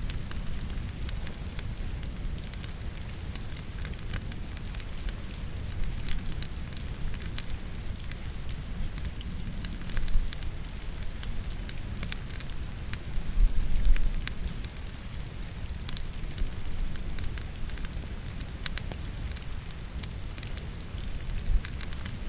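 Wood fire in a fireplace crackling, with many small irregular pops over a steady low rumble, blended with rain falling. A few louder flare-ups come about ten and fourteen seconds in.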